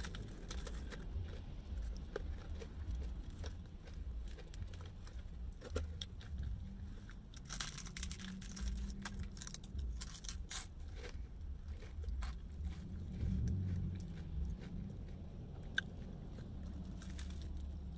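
A person biting into and chewing crispy fried chicken, its coating crunching in irregular crisp clicks, with a steady low hum beneath.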